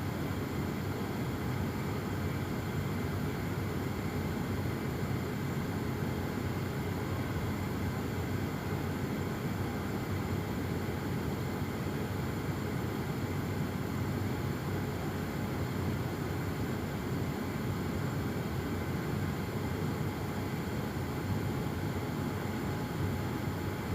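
Steady low rumbling noise with no distinct events, holding an even level throughout.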